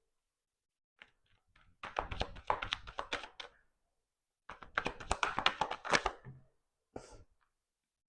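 Tarot cards being shuffled by hand: two runs of rapid flicking clicks of about two seconds each, then one short burst near the end.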